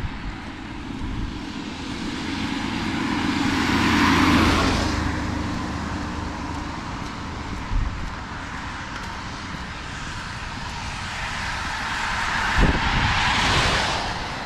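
Two cars passing on a wet road, their tyres hissing as each swells and fades, one about four seconds in and another near the end. A couple of short low thumps come in between.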